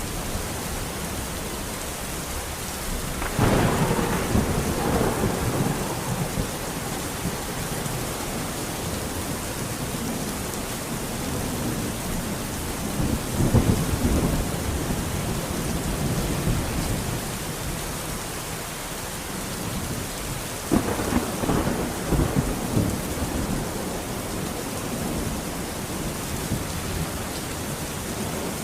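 Steady rain with thunder. A sudden clap comes about three seconds in, a rolling rumble near the middle, and another sudden clap about two-thirds of the way through, each rumbling on for a couple of seconds.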